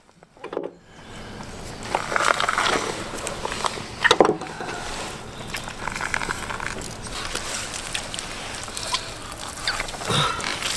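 Python skin being pulled off the carcass by hand: a steady wet rustling and peeling, with a few sharp clicks.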